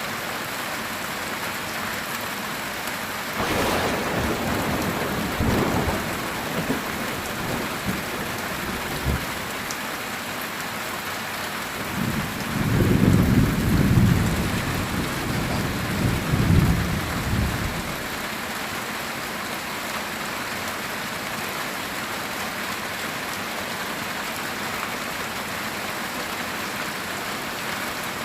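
Heavy rain falling steadily on a metal tin roof. About three seconds in a thunderclap cracks and rumbles for a few seconds, and from about twelve to eighteen seconds in comes a louder, longer, low roll of thunder.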